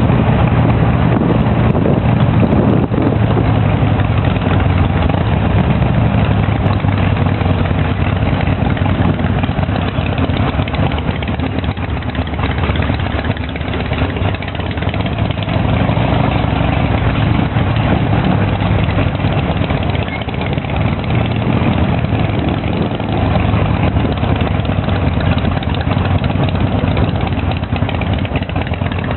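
Harley-Davidson V-twin motorcycle engine running steadily with a low rumble, easing off slightly now and then.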